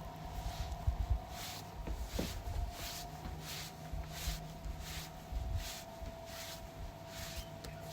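Footsteps, roughly one every 0.7 seconds, over a faint steady hum.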